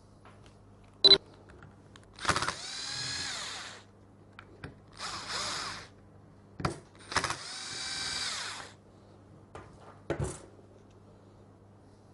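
Small electric screwdriver motor running in three short bursts, each whine rising then falling in pitch, as it backs out the screws of a brush-holder cover on a power-tool housing. Sharp clicks come between the bursts.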